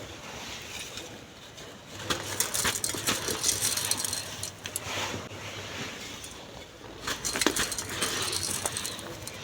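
Soft, dry golden sand crumbling and being crushed, a gritty crackling with many sharp clicks from breaking pieces. It gets louder about two seconds in.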